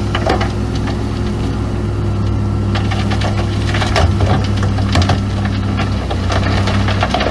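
Heavy diesel earthmoving machinery running steadily, with stones cracking and crunching irregularly as rock fill is pushed or dumped.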